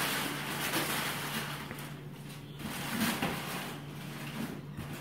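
Faint rustling and a few light handling knocks, over a low steady hum.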